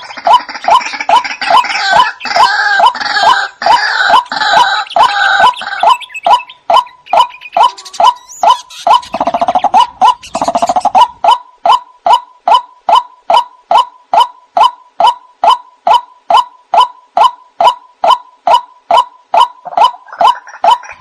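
White-breasted waterhen calls from a lure recording, used for catching the birds at night: a steady run of short notes repeated about two to three times a second. For the first six seconds, and briefly again around the tenth second, a denser, higher chorus of overlapping calls lies over them.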